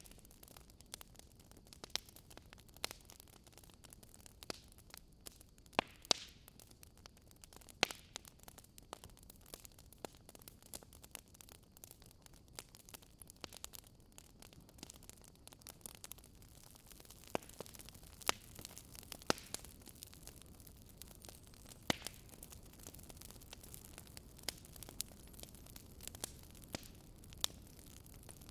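Wood campfire crackling, with sharp, irregular pops scattered all through, over a faint steady rush of the river.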